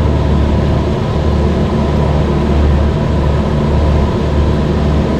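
Cessna 172's piston engine and propeller droning steadily, heard from inside the cockpit in cruise flight.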